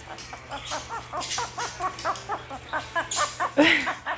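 Severe macaw chattering: a quick string of short pitched notes, about six a second, then a louder squawk near the end.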